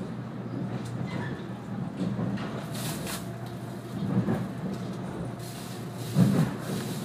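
Cabin noise of a 485-series electric train running: a steady rumble of wheels on rail, with heavier knocks about four and six seconds in.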